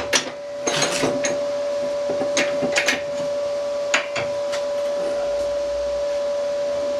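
Scattered sharp metal clicks and knocks, most of them in the first four seconds, as tools work a heated broken stud that has started to move. A steady hum with a constant tone runs underneath.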